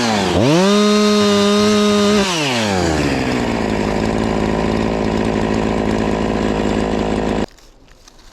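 A two-stroke chainsaw held at full throttle dips for a moment and picks back up, then is let off and drops to idle after about two seconds. It idles steadily and is switched off near the end, stopping abruptly.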